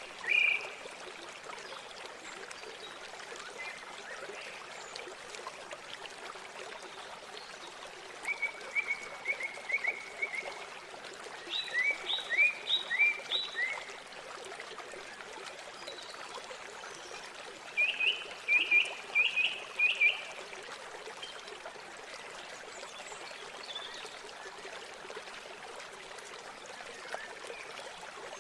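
Steady rush of flowing river water. A small bird sings over it three times, each a short run of quick, high chirping notes.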